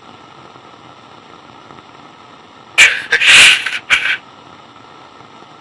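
Walkie-talkie static hissing steadily, broken about three seconds in by a short cluster of harsh, hissing bursts lasting about a second.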